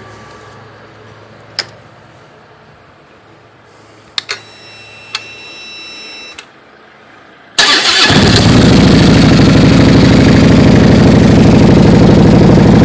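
Harley-Davidson Street Glide V-twin with stock headers and a CFR slip-on exhaust being started: a few clicks and a short whine, then about three-quarters of the way in the engine fires at once and settles into a loud, pulsing idle.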